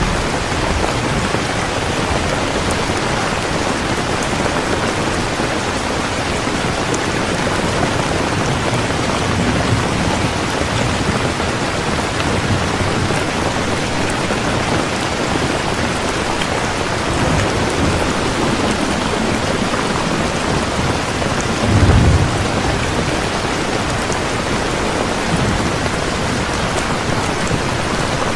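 Heavy rain falling steadily, with distant thunder rumbling low a few times and one louder, short thunder rumble late on.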